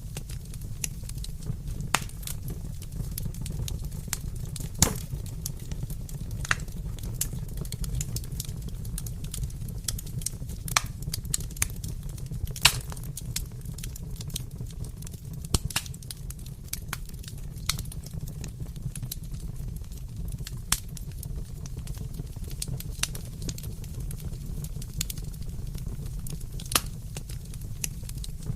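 Wood fire burning in a fireplace: a steady low rumble with irregular crackles and sharp pops.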